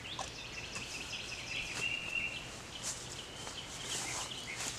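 Birds chirping over a steady outdoor background, with a few light clicks.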